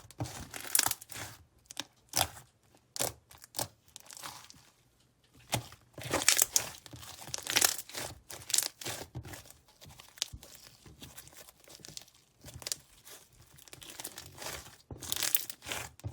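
Hands squishing, stretching and pressing a bead-filled slime, giving irregular bursts of crackling and crinkling, louder in the middle and again near the end.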